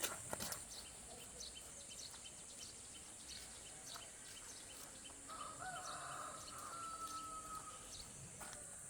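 A rooster crowing once in the distance, a drawn-out call that wavers at the start and then holds steady for about two and a half seconds, beginning about five seconds in. Behind it are a steady high-pitched insect drone and scattered light clicks and steps.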